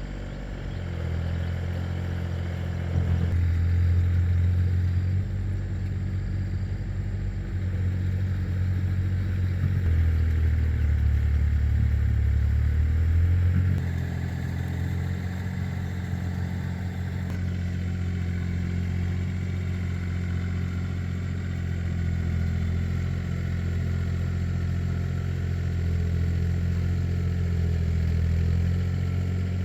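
Tractor engine running steadily, with a mechanical clatter. Its note and loudness shift a few times, dropping lower for a few seconds near the middle.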